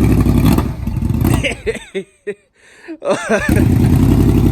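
Cold 2006 Yamaha Royal Star Tour Deluxe V4 with aftermarket dual exhaust, fed by carburettors: it runs briefly, stumbles and dies out about a second in, then catches again near the end and settles into a steady run. It is a hard cold start after months of sitting, with the fuel system still refilling to the carbs.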